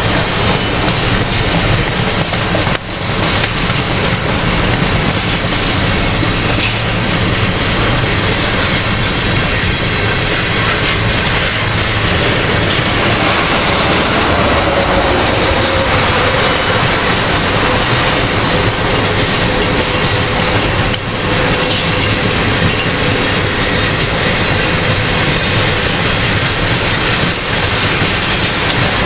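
Slow-moving freight train of covered hopper cars passing close by, steel wheels rolling and clattering over the rails. A faint, thin wheel squeal comes in about halfway through and fades out near the end. Heavy wind noise on the microphone.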